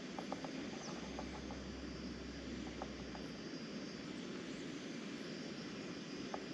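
Steady rain falling, with scattered light ticks of single drops.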